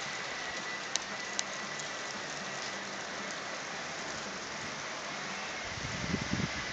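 Steady hiss of a thunderstorm's gusty wind and rain as the storm front arrives, with a couple of faint ticks and a low rumble near the end.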